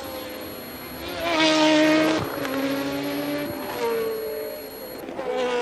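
1982 Formula One cars running at high revs and passing one after another. The loudest goes by about a second and a half in, its pitch stepping down as it passes, and more cars follow near the end.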